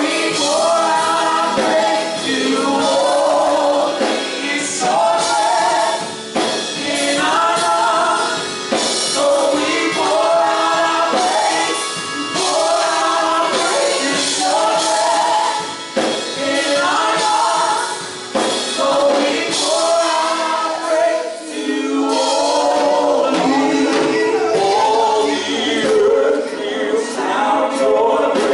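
Gospel choir singing a worship song with instrumental accompaniment and a steady beat.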